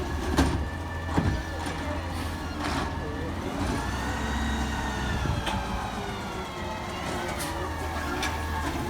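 McNeilus ZR rear-loading garbage truck running, with several clanks and knocks. Around the middle, a whine rises and then falls over about three seconds as the truck revs.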